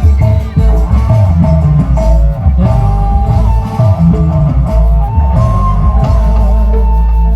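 Loud band music with a heavy bass line, drums and a plucked-string lead melody.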